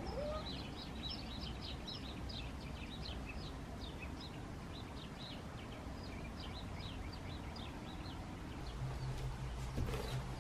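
Small birds chirping outside: a quick run of short, high chirps that fades out after about seven seconds, over a faint low hum.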